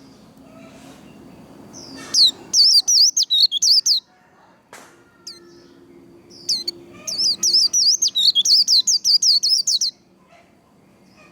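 White-eye (vành khuyên) singing its fast, high 'líu' warble in two rapid runs of looping notes, the first about two seconds in and a longer one from about six and a half seconds, with a short pause between.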